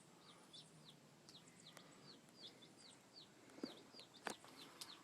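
Baby chicks peeping faintly: a steady run of short, high, falling peeps, two or three a second, with a few sharp clicks about four seconds in.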